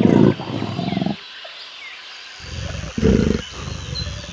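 Leopard calling with a series of deep, rough grunts: a run of them, a pause of about a second, then another run. Faint bird chirps sound in the background.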